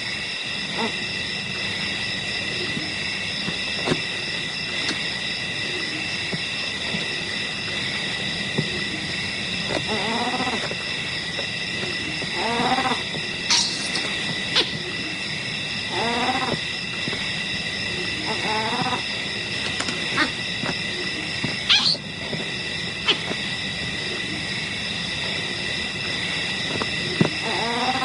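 Steady chorus of night insects, with a short animal cry every few seconds, about five in all, and a few sharp clicks.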